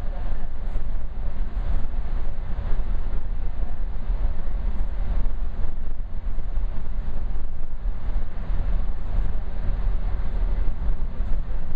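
Steady low rumble of a GO Transit commuter train coach running at speed along the rails, heard from inside the passenger cabin, with faint light rattles.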